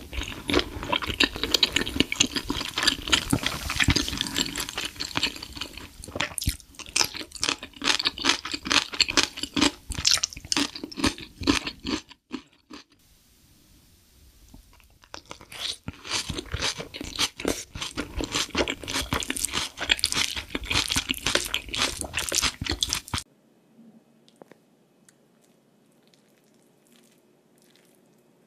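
Close-miked ASMR eating: dense, wet chewing and smacking of a mouthful of raw salmon and rice, in two long stretches with a short pause between. About 23 seconds in it cuts off suddenly, leaving only faint scattered eating clicks.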